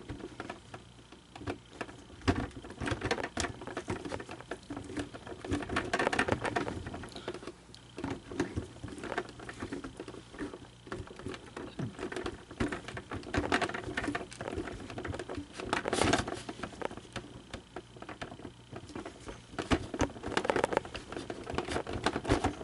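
Irregular clicking, tapping and rustling of hard plastic parts being handled and fitted back together on an animated figure, with louder clusters of clicks now and then.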